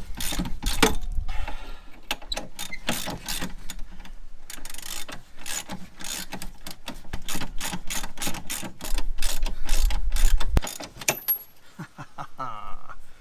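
Ratchet wrench clicking in quick, irregular runs, with a short low rumble late on.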